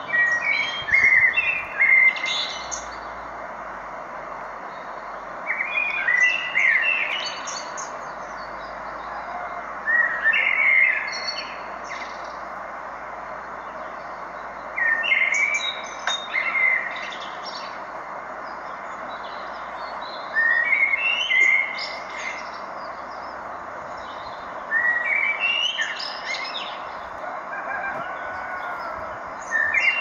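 A songbird singing the same short phrase over and over, about once every five seconds, each phrase lasting under two seconds, over a steady background hiss.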